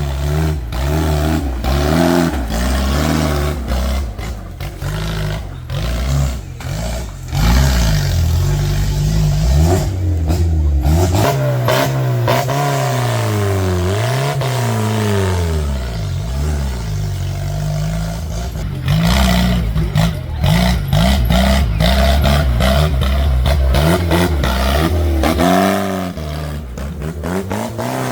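Tractor diesel engines revving up and down again and again, with clattering and knocking over the engine sound.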